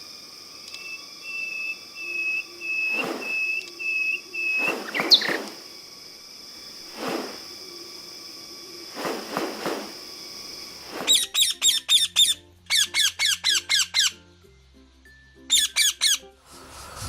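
Birds calling: a run of short repeated notes and several sharp squawks over a steady high-pitched hum, then from about two-thirds of the way in, rapid bursts of quick repeated chirps.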